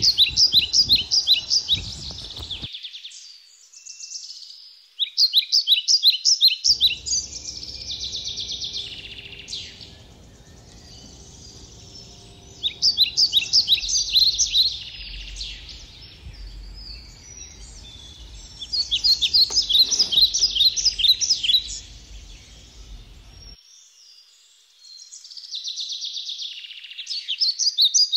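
Songbird singing: phrases of rapid, high repeated notes, each a couple of seconds long, recurring every few seconds. A low background rumble runs under the middle stretch and cuts off abruptly at both ends.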